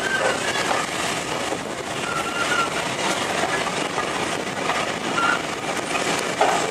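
A train running on the line, a steady noisy rush with no clear beat.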